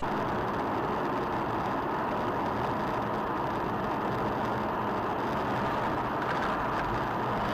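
Steady road and engine noise of a moving car heard through a dash camera's microphone, an even rushing sound with no impacts or horn.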